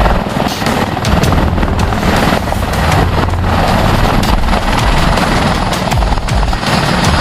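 Military helicopter in flight, its rotor and turbine engines running loud and steady, with a fast beat from the rotor blades.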